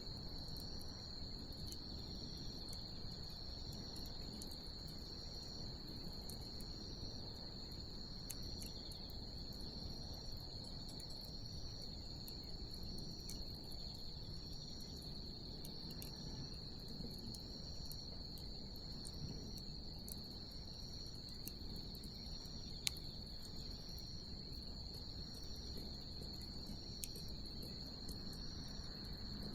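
Night insects trilling steadily on one high note, with a second insect chirping in an even rhythm above it, over the low hiss of a bonfire that gives occasional sharp crackling pops, one louder about two-thirds of the way through.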